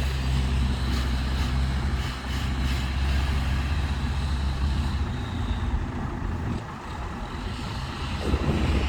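Diesel dump truck engine running with a steady low hum. After about five seconds the hum gives way to a rougher, uneven rumble.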